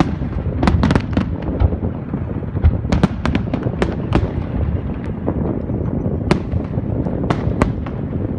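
Fireworks display: many sharp cracks and bangs of bursting shells at an irregular pace, over a continuous low rumble.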